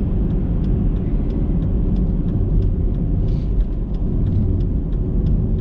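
Road noise and engine hum inside a moving car's cabin: a steady low rumble of tyres and engine.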